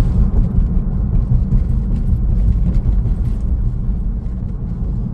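A car in motion: a steady, loud low rumble of road and engine noise heard from inside the cabin.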